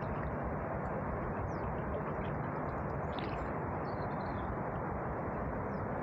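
Steady rushing noise, with a few faint bird chirps around the middle.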